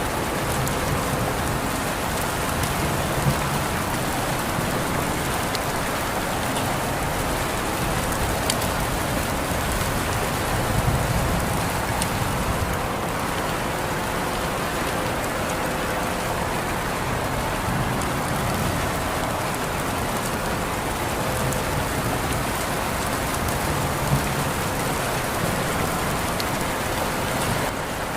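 Steady rain falling on surfaces, a continuous even hiss with scattered individual drops ticking.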